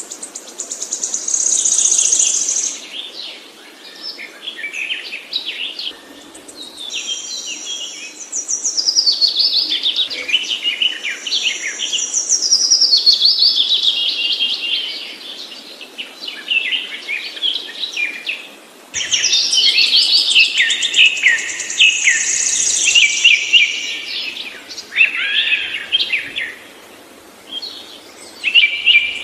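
Songbird singing long, varied phrases of rapid high notes and trills, with short pauses between phrases; the song breaks off and starts again abruptly about two-thirds of the way through.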